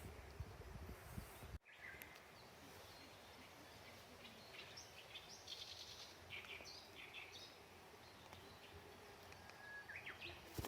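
Faint wild birds chirping now and then over quiet outdoor ambience, after a low rumble that cuts off abruptly about a second and a half in.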